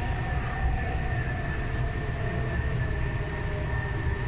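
Hyundai Rotem R-Train electric multiple unit heard from inside the carriage as it runs into a station: a continuous low rumble of wheels on track, with a steady high-pitched whine over it.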